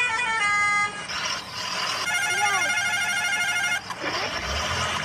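Electronic horn-like tune of stepped notes for about a second, then a hiss, then a rapidly trilling ring-like tone for about two seconds that cuts off suddenly: electronic vehicle sound effects.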